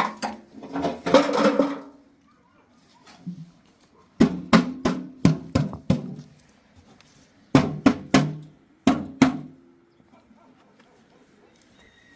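Two quick runs of sharp knocks on something hollow, each knock leaving a short low ring.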